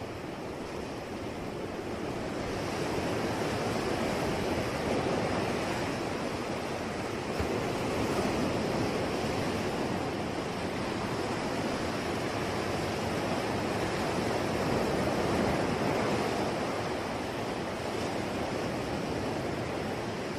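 Sea waves washing ashore in a steady rush of surf that swells and ebbs slowly, with the louder surges at about 3, 8 and 15 seconds in.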